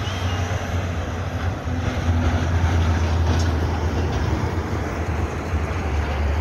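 A train running on the railway line: a steady low rumble that grows somewhat louder about two seconds in.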